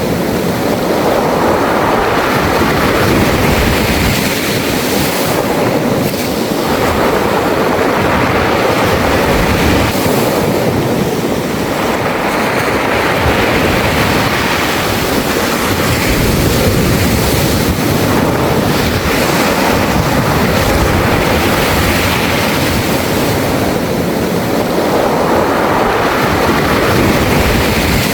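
Sea waves breaking and washing back over a beach of smooth round pebbles, the stones rattling in the surf. The wash swells and eases about every five seconds, with wind buffeting the microphone.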